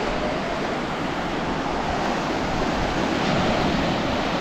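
Ocean surf washing onto the beach, a steady rush of breaking waves.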